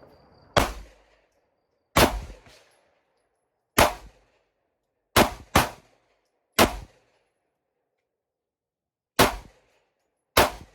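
Glock 43X 9mm pistol fired eight times in slow, uneven succession, each shot a sharp crack with a short ringing tail; two shots come close together near the middle.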